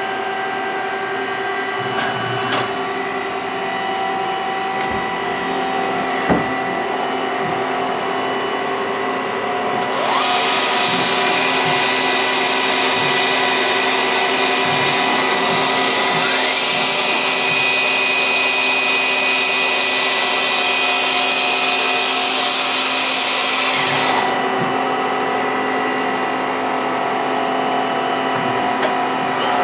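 Star SV12 CNC Swiss-type lathe running, a steady machine hum and whine of several tones. About ten seconds in, a loud hiss comes on together with a rising whine, and it cuts off again a few seconds before the end.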